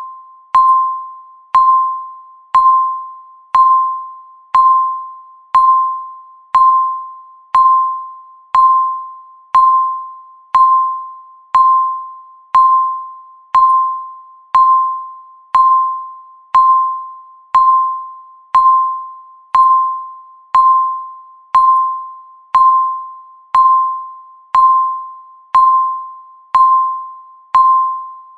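Countdown timer's tick sound, once a second: each tick is a sharp click with a short, clear ringing tone that fades away before the next one.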